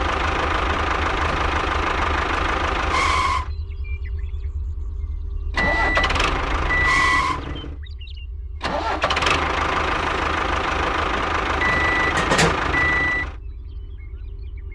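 Engine running with a steady low throb, overlaid three times by stretches of louder rushing mechanical noise that carry a few short high-pitched tones.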